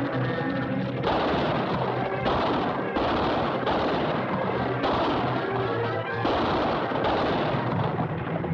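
Dramatic orchestral film score with loud, noisy crashes over it, each starting sharply, about one, two, five and six seconds in.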